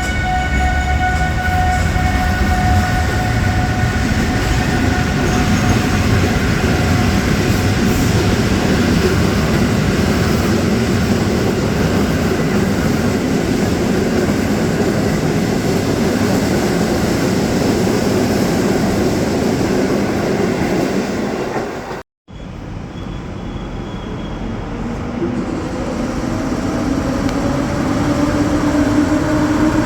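Train passing on the track: a loud, continuous rumble of wheels on rails. About 22 seconds in, the sound cuts out briefly and is followed by a locomotive running, its hum slowly rising in pitch and growing louder.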